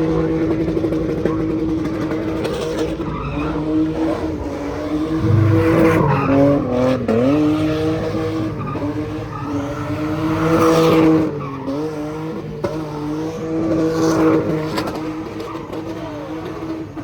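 Car engine held at high revs with tyres skidding. The pitch stays steady and dips briefly about six seconds in and again around eleven seconds.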